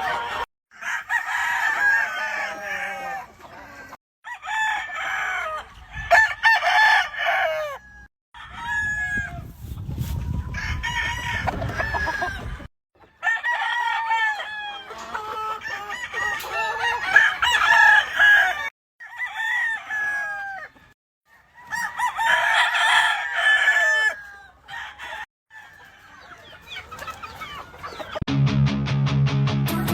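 Roosters crowing and chickens clucking, heard in a string of short clips with abrupt cuts between them, with a low rumble under the calls for a few seconds midway. Music with a steady beat comes in near the end.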